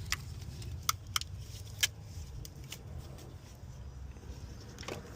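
A handful of light, sharp clicks and clinks from hand tools working on the engine, over a steady low rumble.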